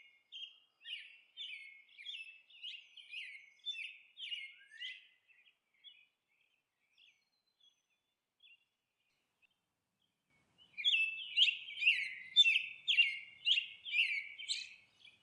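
Small birds chirping: a quick series of short, falling chirps, about three a second. They fade out about five seconds in and return louder a few seconds before the end.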